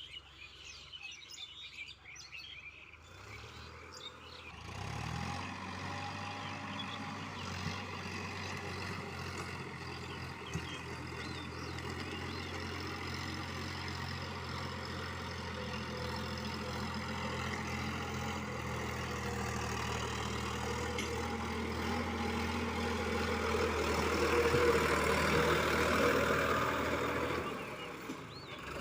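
Birds chirping, then a tractor's diesel engine, a Sonalika DI-50 RX, comes in about four seconds in with a rising pitch and runs steadily. It grows louder near the end and then drops off shortly before the end.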